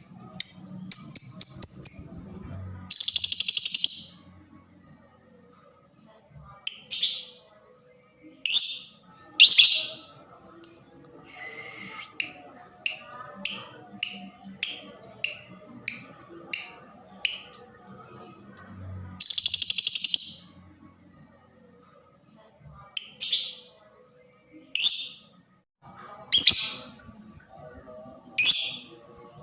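Lovebird calling in sharp, high, piercing chirps. A quick run of chirps rises in pitch at the start, two long harsh buzzing calls come about three and nineteen seconds in, and an evenly spaced run of chirps about twice a second fills the middle. This is the excited 'fighter' calling used to provoke other lovebirds into calling.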